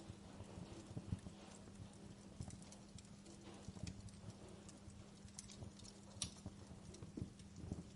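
Wood fire crackling with irregular small pops and snaps, one sharper pop about six seconds in, over a steady low hum.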